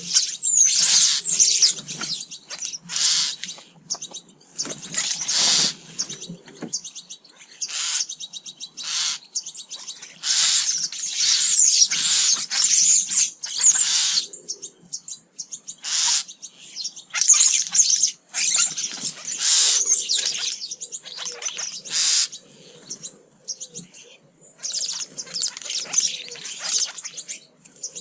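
Small garden birds at feeders chirping and twittering in many short overlapping bursts.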